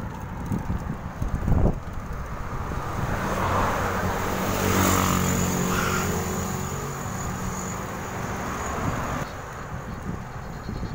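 A motor vehicle passing close by on the road, its engine and tyre noise swelling to a peak about five seconds in, dropping slightly in pitch and fading by about nine seconds.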